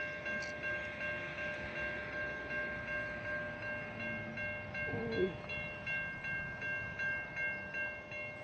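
Level crossing warning bell ringing as the boom gates come down, an electronic ding repeating evenly about twice a second, warning of an approaching train.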